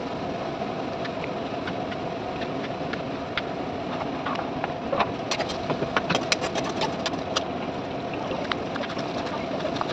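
Oil sizzling steadily in a kadai as onions and spices fry, over a constant low hum. Between about five and seven and a half seconds in comes a run of sharp clicks and taps as chopped green capsicum drops from a wooden board into the pan and a steel slotted spoon knocks against it.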